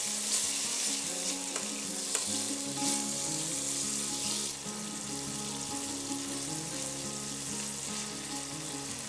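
Boneless chicken pieces sizzling in hot oil in a non-stick pan over high heat while a silicone spatula stirs them, with a few light scrapes and taps in the first three seconds. The sizzle drops a little about halfway through.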